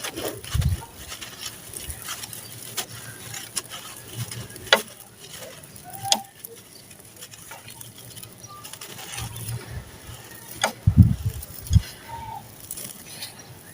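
Dry sand-cement chunks being crumbled and crushed: scattered sharp crunches and cracks, with a few heavier thuds just under a second in and again around eleven seconds in, where it is loudest.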